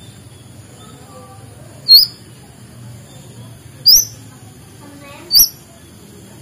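White-rumped shama (murai batu) giving three loud, sharp whistled notes, each a quick upward-hooked note, spaced about one and a half to two seconds apart. Fainter, softer chirps sound between them.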